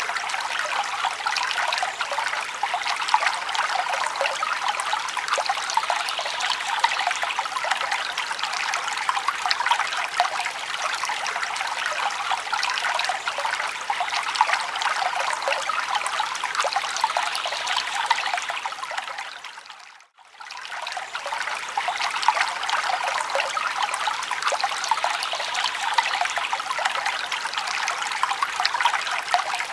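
Forest stream running with a steady, bright trickle and babble of water. About two-thirds of the way through, it fades out almost to silence for a moment and fades straight back in.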